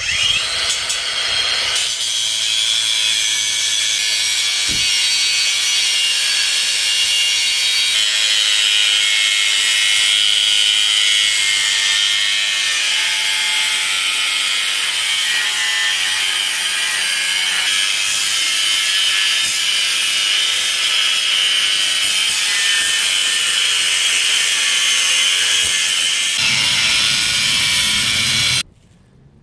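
Cordless angle grinder cutting through a steel frame: a loud, steady high-pitched grinding whine with a hiss of the disc on metal, which stops suddenly near the end.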